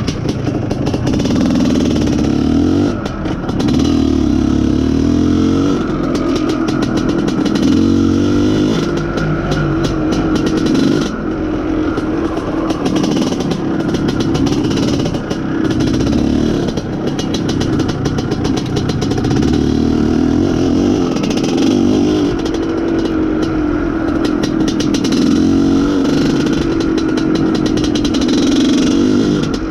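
IZh Planeta Sport's single-cylinder two-stroke engine running under way, its pitch rising and falling with the throttle and a few brief dips as it shifts gear. It is being test-ridden with a larger main jet fitted to cure a lean mixture that had stopped it pulling properly.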